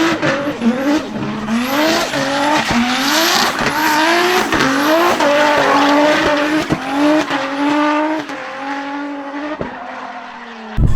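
Drift car engine revving hard in quick repeated rising pulls as the throttle is worked, over tyres skidding and squealing, with sharp pops between the pulls. After about eight seconds the engine holds a steadier note and fades, and just before the end the sound switches abruptly to a deeper, louder rumble.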